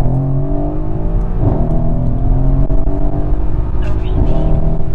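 Mercedes-AMG C63 S's twin-turbo V8 pulling hard under full acceleration, its note climbing steadily in pitch, dropping back at a quick upshift about a second and a half in and again near the end.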